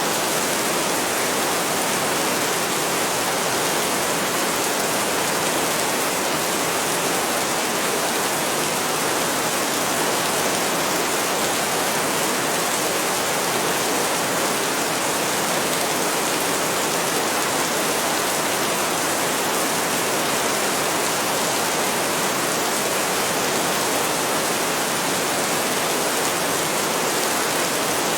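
Heavy rain falling steadily: a dense, even hiss that does not change, with no thunder.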